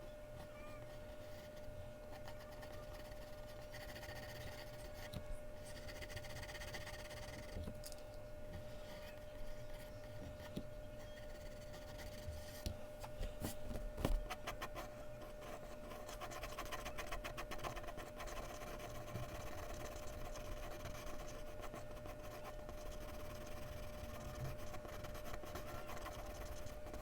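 Mechanical pencil scratching across Bristol paper in quick, repeated shading strokes, with a couple of sharp knocks about 13 to 14 seconds in. A faint steady hum runs underneath.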